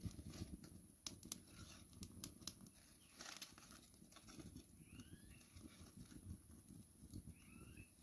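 Quiet outdoor ambience: a bird gives a short curving whistled call twice, about five seconds in and again near the end. Scattered faint clicks and crackles sound in the first half. A steady high-pitched hiss like insects runs underneath.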